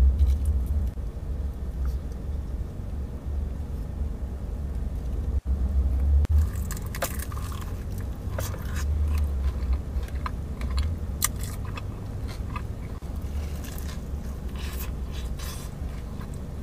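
Close-up crunching and chewing of bites from a fried chicken finger sandwich, crisp crackles coming thick from about six seconds in, over a steady low rumble.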